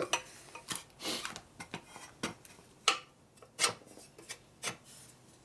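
A steel bar worked into an exhaust pipe, rubbing and scraping metal on metal with a string of irregular clinks and knocks as it is pushed in and twisted for fit.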